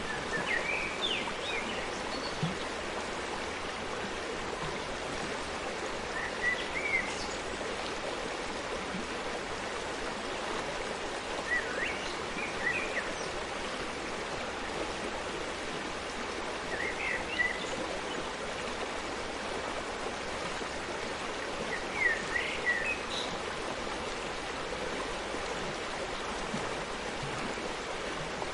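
Forest stream flowing steadily. A small bird sings a short chirping phrase five times, about every five to six seconds.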